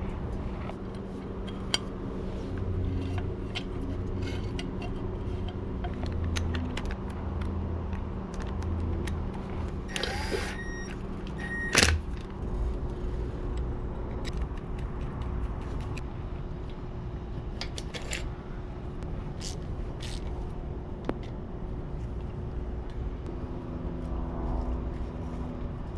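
Scattered clicks and knocks of tools and parts being handled during bike reassembly, with a louder clatter about ten to twelve seconds in, over a steady low hum.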